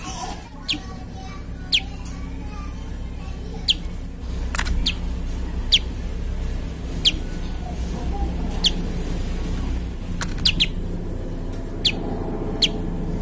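Prinia (prenjak) calling: a series of short, sharp, high chirps, about one a second, over a steady low hum.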